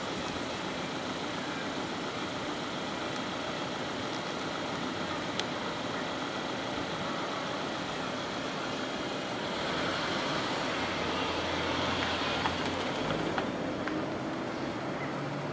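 Steady background traffic noise, swelling for a few seconds about ten seconds in as a vehicle passes.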